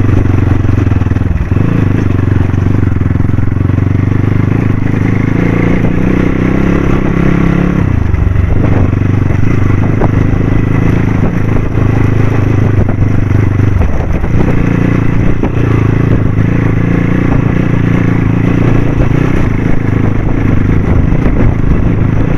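Dirt bike engine running under throttle over rough, stony ground. The revs dip and pick up again three times: near the start, about a third of the way in, and a little past halfway.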